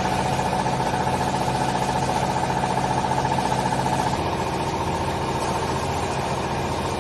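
Hydraulic clothes baler's motor and pump running steadily with a pulsing hum. Its tone shifts about four seconds in.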